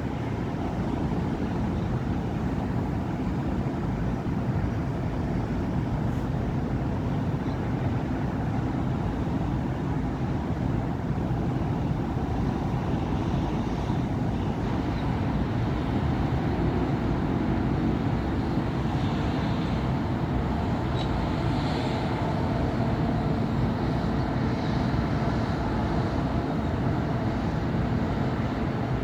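Steady city road traffic: cars, buses and trucks driving past in a continuous low engine and tyre rumble.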